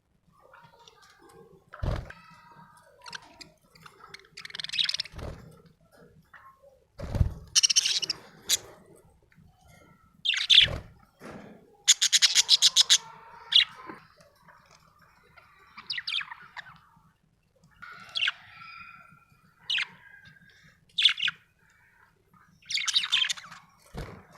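Budgerigar chirping and chattering in short, irregular bursts, with a rapid buzzy trill about halfway through. A few brief low thumps are mixed in.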